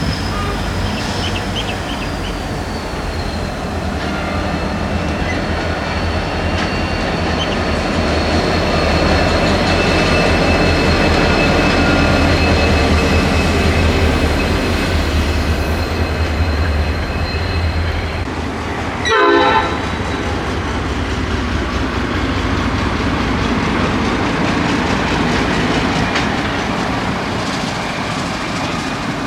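Train rolling past with a steady low rumble and thin, high, squealing tones from the wheels on the rails. A short horn blast comes about two-thirds of the way through, and the rumble is lower after it.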